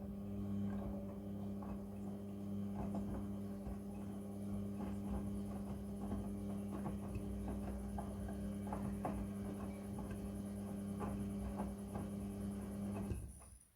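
Front-loading washing machine running its wash cycle: the drum motor hums steadily while the wet blanket tumbles with light irregular patter and clicks, then the motor stops suddenly near the end as the drum pauses between turns.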